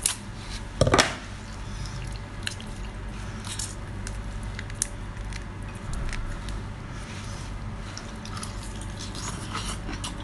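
Close-miked wet eating sounds: food being chewed and squished in the mouth, with small smacks and clicks and one louder bite or slurp about a second in, over a steady low hum.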